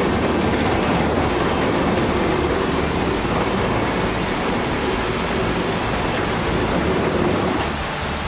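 Continuous rumbling, clattering noise of a brick house being demolished, easing off near the end.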